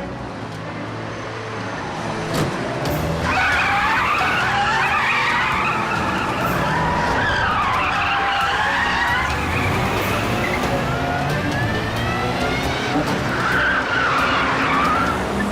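Cars skidding: engines running with long, wavering tyre squeals that start about three seconds in and come again near the end, as the cars brake and swerve hard.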